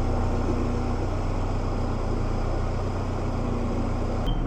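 Tractor diesel engine running steadily at low revs. Just before the end the sound changes abruptly, and a steady high beeping starts.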